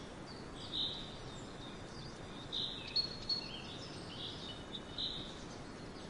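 Birds chirping in short, high calls every second or so over a steady outdoor background hiss.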